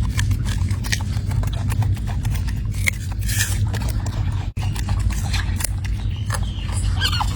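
Monkeys eating: an irregular run of small clicks and scrapes of food being handled and chewed, over a steady low rumble.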